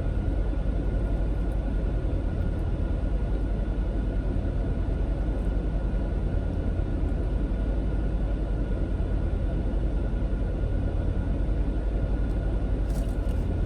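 Steady low rumble with a faint constant whine above it, unchanging throughout.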